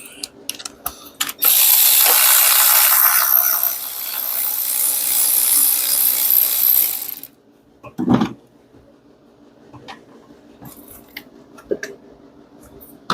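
A power tool spinning for about six seconds on the 10 mm bolt that holds the cylinder 2 ignition coil, followed about a second later by a sharp clink of a metal part, then a few small clicks.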